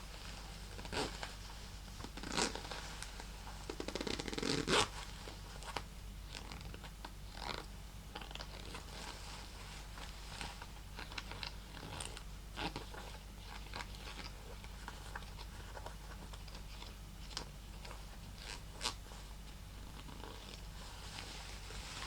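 Zipper of a tiny purse being run, a quick rasping run of zipper teeth about four seconds in, among scattered light taps and scratches of fingers on the purse.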